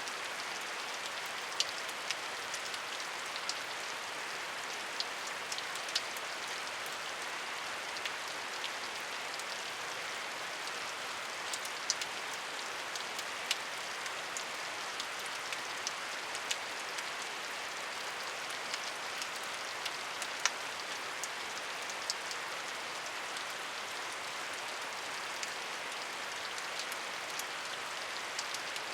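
Steady rain falling, an even hiss with scattered sharper drop ticks as individual drops hit a surface.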